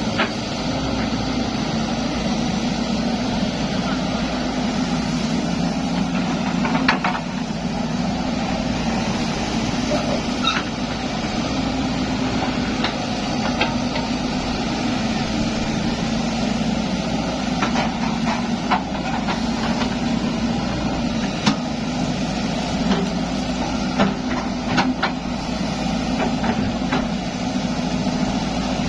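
Zoomlion excavator's diesel engine running steadily, with occasional short knocks and clanks scattered through.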